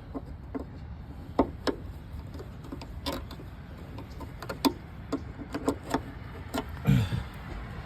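Scattered small metallic clicks and taps of a flathead screwdriver working the spring clip on the socket end of a hatch lift support, over a low steady rumble.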